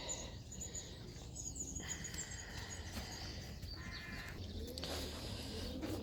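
Birds calling in a pigeon loft: scattered high chirps and short cheeps over a low steady hum.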